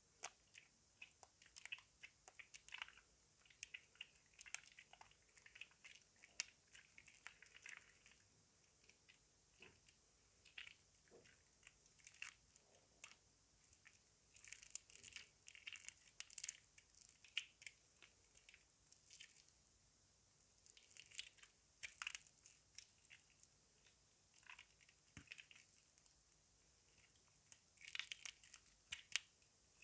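Soaked bar laundry soap squeezed and crumbled by hand, giving irregular soft crunches, crackles and squishes, with busier bursts about halfway through and near the end.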